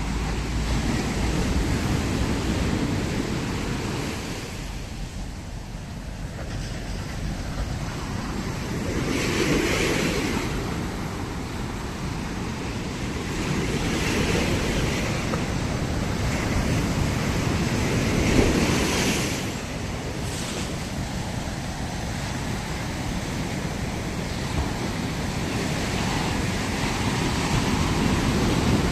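Ocean waves washing up the beach, a steady surf wash with breakers swelling every few seconds, and low wind rumble on the microphone.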